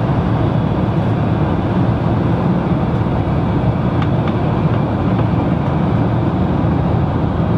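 Airliner cabin noise: a steady drone of engine and airflow inside the cabin, with a few faint clicks.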